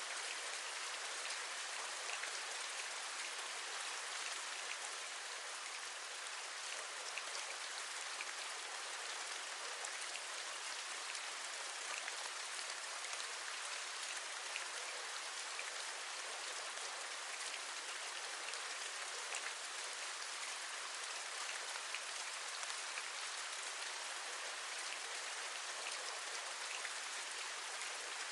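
Steady rain with many small, scattered drop taps over an even hiss.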